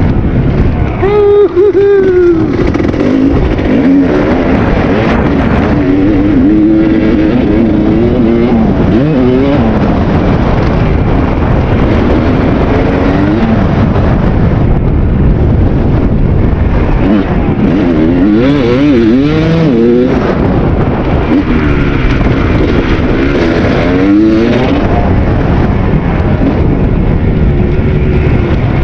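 Kawasaki KX250 two-stroke dirt bike engine under riding load, its pitch rising and falling again and again as the throttle is opened and closed, over a loud steady rushing noise.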